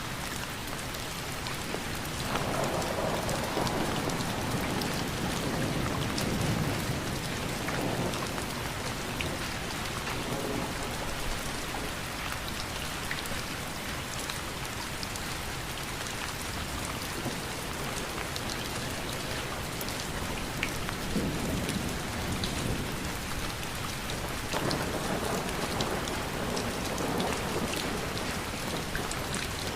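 Steady rain falling, with scattered individual drops ticking. Low rumbles swell and fade a few times: about two seconds in for several seconds, and again in the second half.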